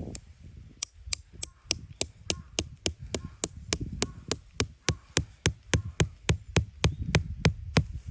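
Rapid, even hammering: sharp, ringing blows, three to four a second, starting about a second in and stopping near the end, over low handling rumble.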